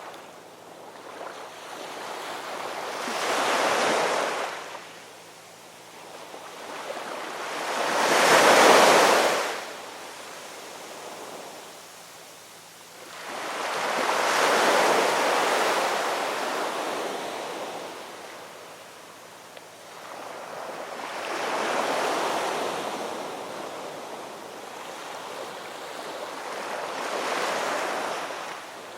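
Ocean waves breaking and washing up a shore in slow surges, five in all, each swelling to a hissing rush and then receding; the loudest wave comes about nine seconds in.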